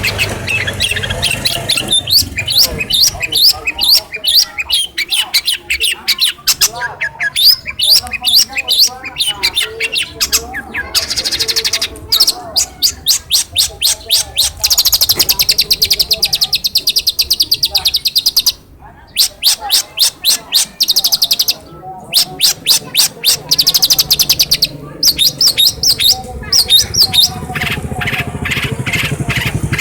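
Long-tailed shrike (pentet) singing loudly and continuously: fast chattering trills and rapid strings of repeated high notes that change from phrase to phrase, the varied song of a bird that mimics other species. The song breaks off briefly twice, about two-thirds of the way through.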